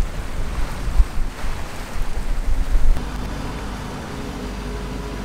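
Wind buffeting the microphone in gusts aboard a moving sailboat, with sea noise underneath. About three seconds in it gives way to a steadier, quieter hum.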